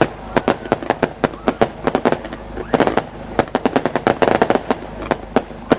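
Fireworks bursting in a rapid barrage: a dense run of sharp bangs and cracks, several a second, thickest about four seconds in.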